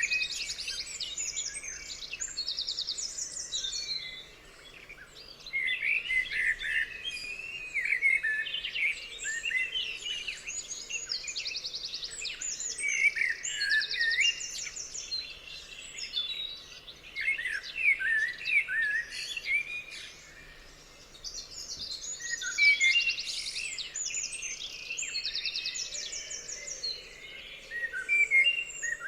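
Songbirds singing: overlapping phrases of chirps, swooping notes and fast high trills, with two short lulls.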